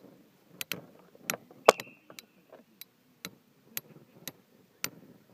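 Beyblade spinning tops clashing in a stadium during a battle: a run of sharp, irregularly spaced clicks as they collide, the loudest just under two seconds in.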